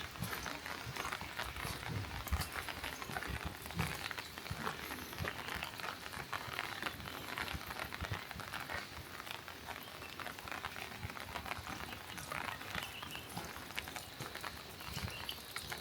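Steady rain pattering, a dense run of small drops striking surfaces, with a few dull low thumps in the first few seconds.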